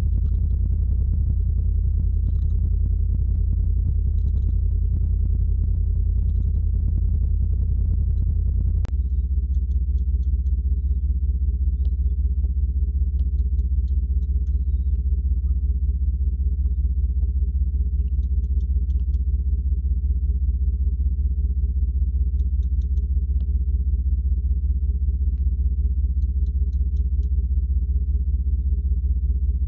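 Steady low rumble of a Mercedes-Benz CLS idling, with an abrupt shift in the sound about nine seconds in.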